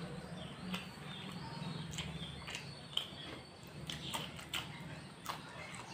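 A person chewing fried snacks up close: irregular crunches and wet mouth clicks and smacks.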